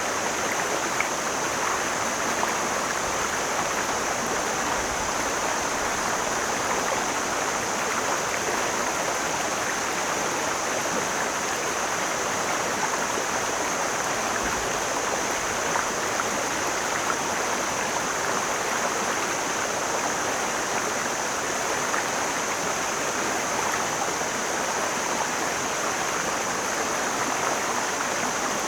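Mountain stream flowing steadily, an even rush of water that does not change.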